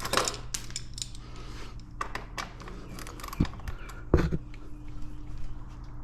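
Hand tools working on a dirt bike: scattered metal clicks and clinks, with two heavier knocks about three and a half and four seconds in.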